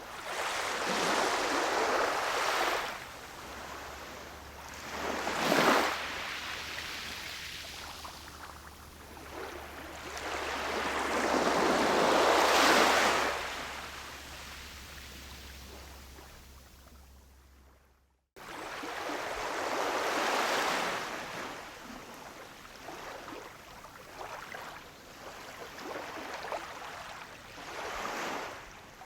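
Ocean waves breaking on a shore, each swelling up and washing back every several seconds. The sound cuts out for an instant about two-thirds of the way through, then the surf carries on.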